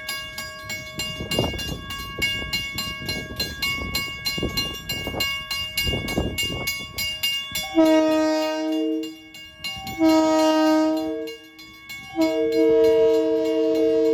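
Train running with an uneven rumble, then its multi-note chord horn sounds about eight seconds in: two blasts of about a second and a half each, then a long held blast.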